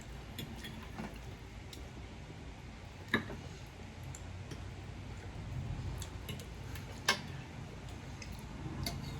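Cutlery clinking on plates while eating steak: a few sharp clinks, the two loudest about four seconds apart, with smaller ticks between.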